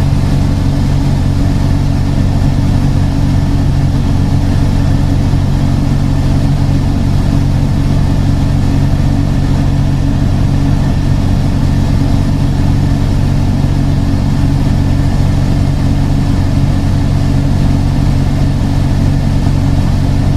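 A vehicle's engine idling, a loud, even low drone that holds steady throughout.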